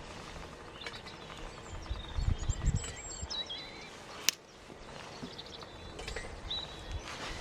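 Small birds chirping and singing in woodland, with a few low thuds about two seconds in and one sharp click just after four seconds.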